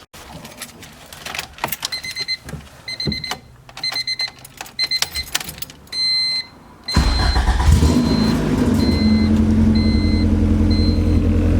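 A car's warning chime beeps steadily amid a few clicks, then the starter cranks briefly and the engine fires about seven seconds in and idles loudly, running open header with no exhaust pipe after the header.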